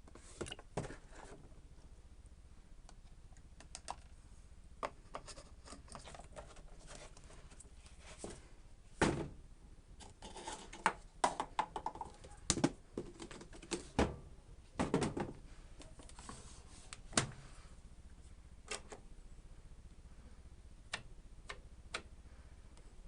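Electrolux EWS 1045 washing machine: scattered light clicks and knocks at irregular intervals over a faint steady low hum, the clicks thickest in the middle stretch.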